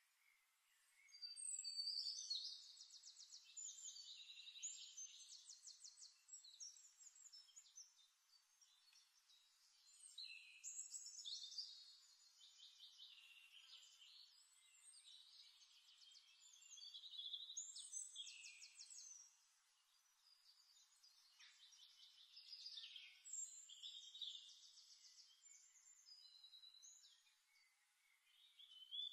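Songbird singing: high, rapid trilled phrases, one every several seconds, with short pauses between.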